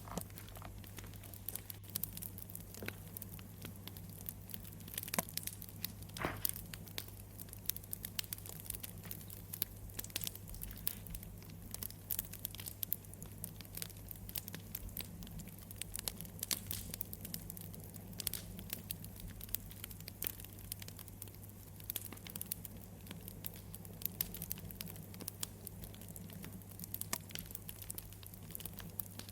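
Wood campfire crackling, with irregular snaps and pops throughout over a steady low hum.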